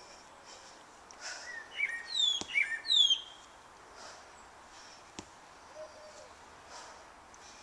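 Birds chirping outdoors: a quick run of sharp downward-gliding chirps between about one and a half and three seconds in, then a quieter chirp near the end. Two short clicks stand out, a couple of seconds apart.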